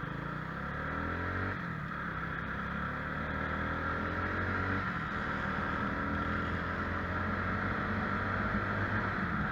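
Motorcycle engine pulling up through the gears while riding: its pitch climbs, drops back at shifts about one and a half and five seconds in, then climbs again, over steady wind noise.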